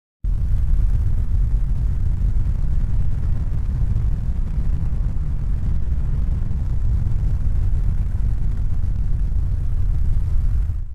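Steady low rumble with no distinct tones or rhythm. It cuts in suddenly just after the start and fades out near the end.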